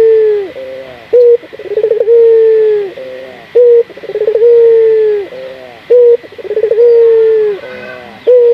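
Barbary dove (local burung puter) cooing, the repeated song used as a lure to set other doves calling. Each phrase, about every two and a half seconds, is a short note, a quick rolling stutter, then a long drawn-out coo that falls away at the end.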